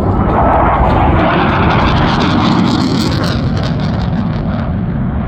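Jet aircraft passing, a Blue Angels F/A-18 Super Hornet flyby: a loud roar that swells to its fullest and highest about two to three seconds in, then eases off.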